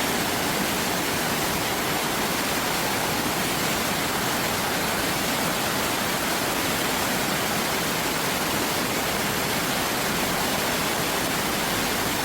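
Stream water rushing steadily over rocks, a constant even splashing hiss.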